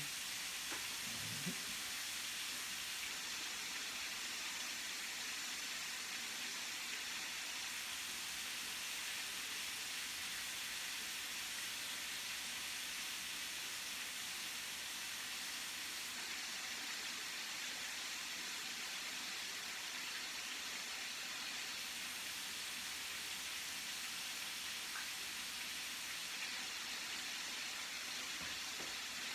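Chicken sizzling in olive oil and butter in an electric skillet: a steady, even frying hiss.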